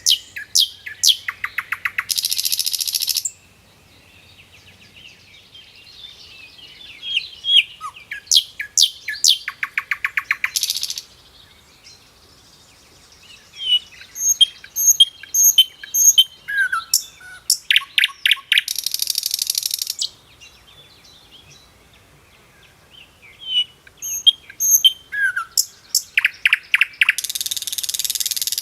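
A songbird singing the same song phrase four times. Each phrase is a string of high chirps and slurred whistles, then a rapid trill, ending in a loud harsh buzz lasting about a second.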